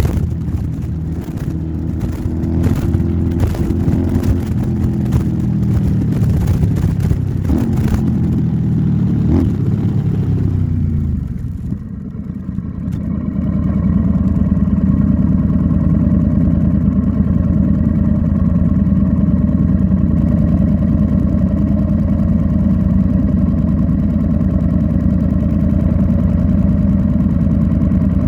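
Royal Enfield Interceptor 650's parallel-twin engine through an aftermarket Nuke exhaust: riding for about ten seconds with wind buffeting the microphone, the pitch falling as the bike slows, then idling steadily for the rest.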